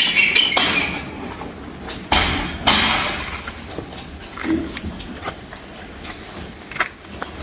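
Pigs in a pen: a high squeal at the start, then two harsh noisy squeals about two and three seconds in and a short low grunt around four and a half seconds, with scattered knocks of movement.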